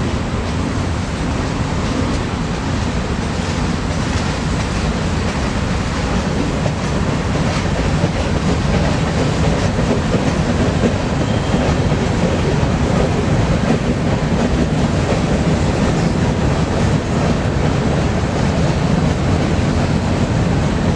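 Freight train cars rolling past on the rails, a steady loud rumble and rattle.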